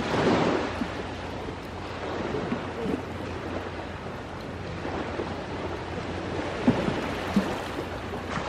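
Waves washing onto a shore, one surging in right at the start over a steady wash of surf, with a few sharp pops from a wood campfire crackling near the end.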